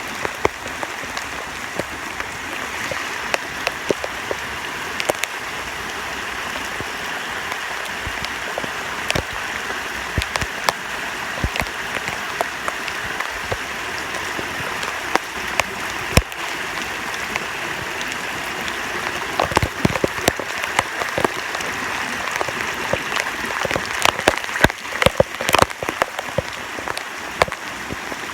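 Heavy rain falling steadily, with many individual drops striking close by as sharp ticks. The ticks come thickest about two-thirds of the way in and again near the end.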